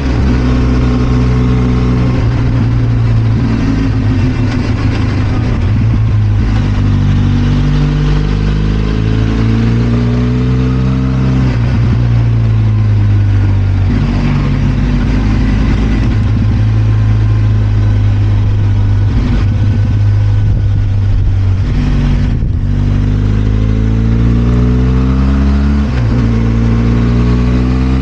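Benelli TRK 502 X's 500 cc parallel-twin engine running under way, its pitch climbing and then stepping back down again and again as the bike is ridden through the gears.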